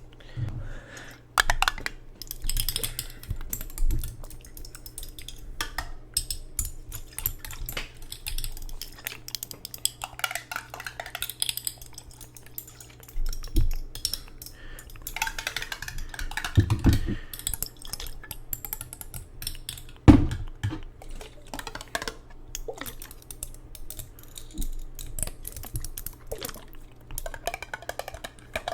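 Dense, irregular tapping and clicking on hard objects, with clinks like dishes or glass. A few louder knocks come about seventeen and twenty seconds in.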